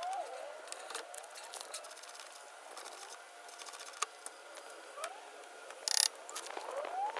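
Socket ratchet and spanner clicking irregularly as the 17 mm nut of a front anti-roll bar end link is undone.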